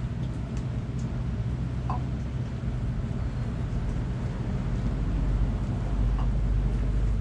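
Steady low engine-like rumble, as of a vehicle running nearby, growing louder in the last couple of seconds. A short, faint bird call sounds about two seconds in.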